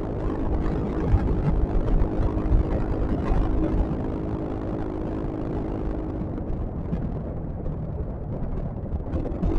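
Yamaha XMAX scooter riding along: a steady engine hum over wind rumble on the microphone. The hum fades about six seconds in and comes back near the end.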